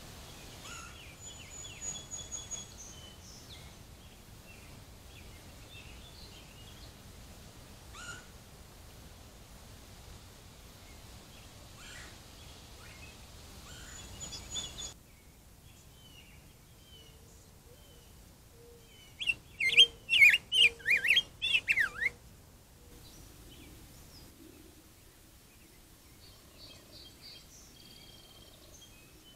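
Wild songbirds calling: thin high whistled notes in the first few seconds, then a loud run of about eight quick sweeping notes about twenty seconds in, and faint chirps near the end.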